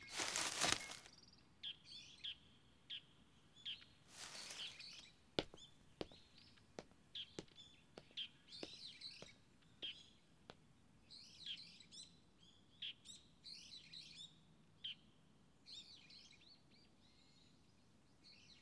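Faint small birds chirping and twittering in short, repeated bursts, with scattered soft ticks between them.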